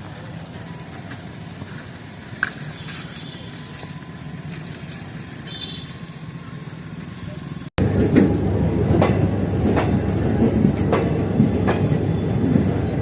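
Railway station background with a low steady hum. After an abrupt cut about 8 seconds in, a train runs past loudly, its wheels clacking over the rail joints in a repeated rhythm.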